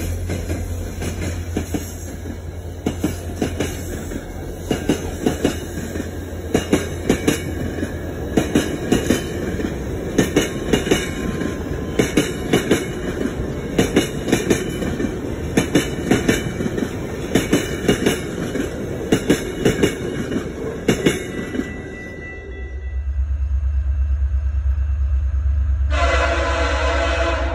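VIA Rail's The Canadian passing at speed: F40PH diesel locomotives humming, then a rapid run of sharp wheel clicks over rail joints as the stainless steel passenger cars roll by. Then a low rumble of the approaching train, and its horn blasts loudly about 26 seconds in, with a shorter toot near the end.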